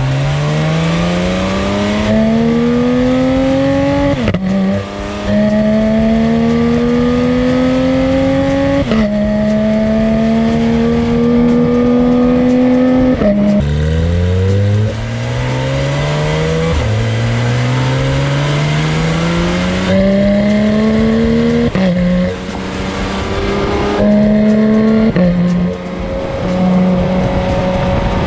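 Porsche 911 GT3 RS's 4.0-litre flat-six accelerating hard through the gears. The engine note climbs in pitch and drops sharply at each quick PDK gearshift, over and over.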